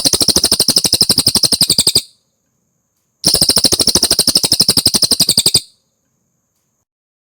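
Cililin songbird giving two fast, rattling trills of rapidly repeated high notes, about 13 a second. Each trill lasts a little over two seconds, with a pause of about a second between them.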